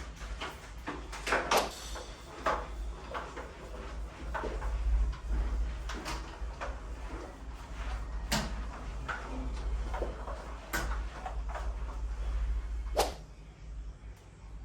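Irregular knocks and clicks of household objects being handled and set down, over a steady low rumble.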